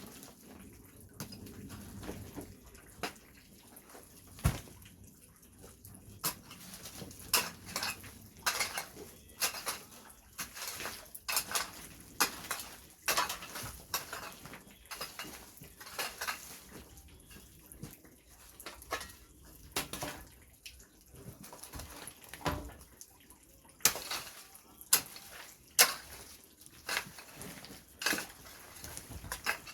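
Irregular sharp clacks and knocks of hard objects being handled and set down, about one or two a second, some louder than others.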